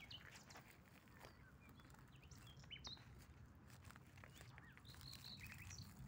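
Faint chirps and short calls of small birds, scattered through and bunching together near the end, over a low steady rumble.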